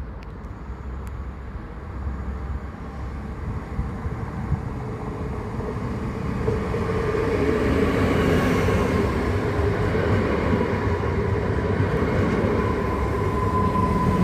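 Regional passenger train approaching and growing steadily louder, a rumble of wheels on the rails with a steady whine that strengthens from about halfway through.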